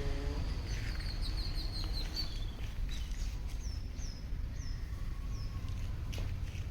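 Small birds chirping over a steady low rumble of outdoor background noise. A quick run of high chirps comes about a second in, followed by four short high calls that fall in pitch, spaced about half a second apart.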